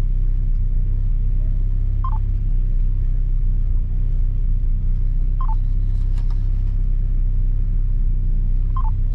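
Small car's engine running with a steady low rumble, heard from inside the cabin. Over it, a short two-note electronic beep sounds three times, about every three and a half seconds.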